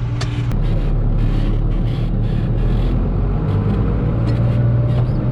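Farm tractor engine running steadily in a higher gear, with a faint whine that rises a little about halfway through.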